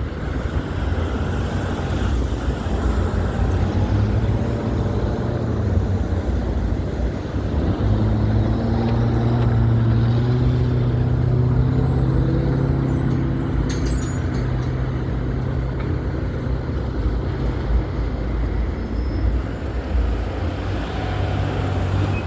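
A long freight train rolling past with a steady low rumble. A deeper engine drone swells and holds through the middle, then fades back into the rumble.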